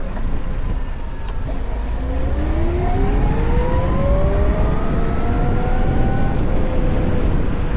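VMoto Stash electric motorcycle's motor whine rising in pitch for about four seconds as the bike accelerates, then holding steady, over a constant rumble of wind and road noise.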